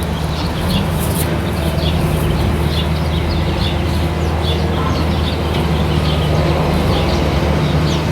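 Small birds chirping over and over in short high notes, over a steady low hum.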